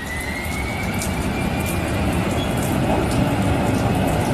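Boeing 737 jet engines spooling up for takeoff, a deep rumble growing steadily louder under a thin whine that rises in pitch.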